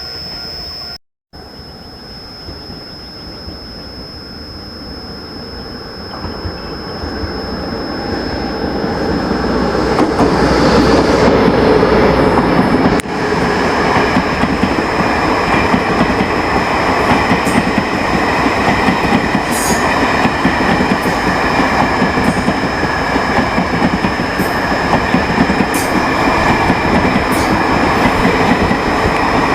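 A train running through the station: its noise builds over the first ten seconds or so to a steady loud rumble, with wheel clicks over the rail joints now and then. A steady high-pitched tone sounds throughout.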